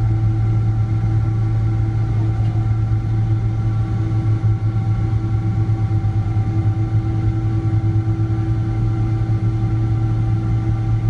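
Steady cabin noise inside a Boeing 777-200ER with its Pratt & Whitney PW4090 engines running: a loud low drone with several steady whining tones above it.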